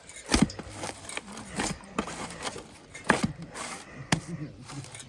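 A series of irregular knocks and scrapes, about eight sharp strikes spread unevenly.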